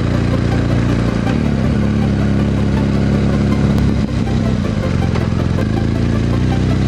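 BMW GS Adventure's boxer-twin engine and exhaust running steadily under way. Its pitch shifts a couple of times, with a brief drop in level about four seconds in.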